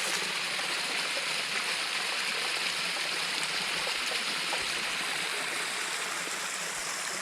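Small creek with little waterfalls rushing and splashing steadily.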